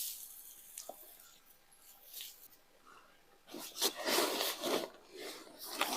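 Quiet at first, then irregular rustling and swishing from about three and a half seconds in, the kind of sound made by brush or branches being shifted, as when a makeshift brushwood gate is set across a shelter entrance.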